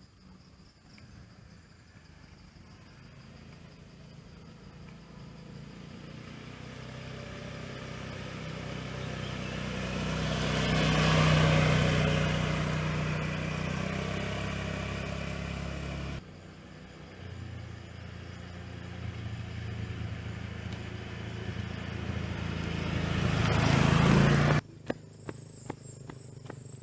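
A small motorcycle fitted with a side-wheel kit riding past. Its engine swells as it approaches, peaks and fades, then cuts off abruptly. A second approach builds louder and cuts off suddenly near the end, followed by a few sharp clicks.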